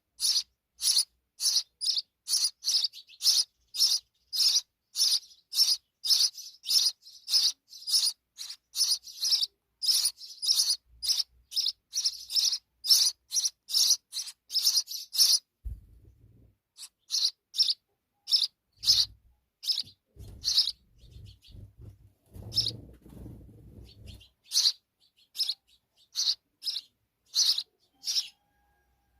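Sparrow chirping over and over, about two short high chirps a second. The chirps break off after about fifteen seconds and then resume more sparsely, with some low rumbling thumps underneath for several seconds.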